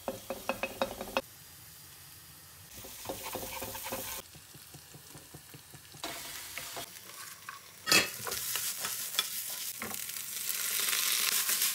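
Food frying in oil in a stone-coated wok with a wooden spatula scraping and stirring: minced garlic sizzling at first, then flat beans. There is one sharp knock about eight seconds in, and the sizzle grows louder near the end as liquid seasoning goes into the hot wok.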